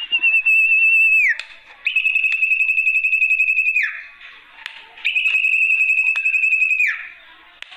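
Sertu (zepo) bird lure call: three long, steady high whistles with a fine rapid wobble, each about two seconds long and sliding down at the end, repeated with short gaps.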